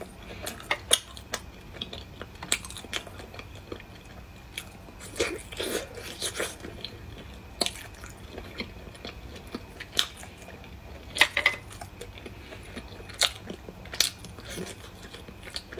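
Close-up eating of cooked whelk meat: biting and chewing with irregular sharp wet mouth clicks, in a few short busier bouts.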